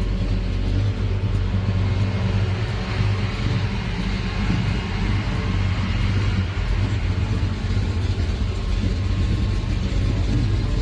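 A car engine running steadily, with a deep, even rumble.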